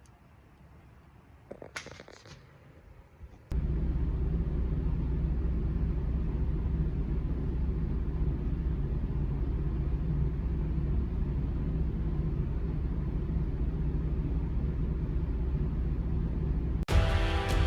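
Heavy truck diesel engine idling, a steady low rumble that starts abruptly a few seconds in after a few faint clicks; music comes in near the end.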